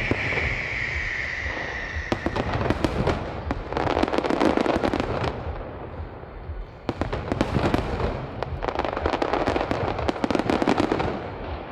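Aerial fireworks going off in quick succession, a steady stream of sharp bangs and crackling. A high whistle fades out in the first two seconds, and the crackling grows dense about four seconds in and again around nine to eleven seconds.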